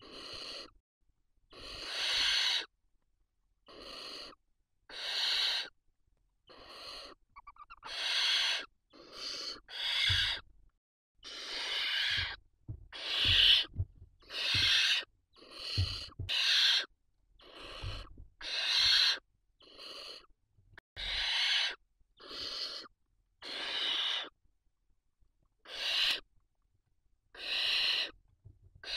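Barn owl chicks giving their harsh hissing begging calls: one rasping hiss about every second, over and over. A few low knocks come in the middle stretch.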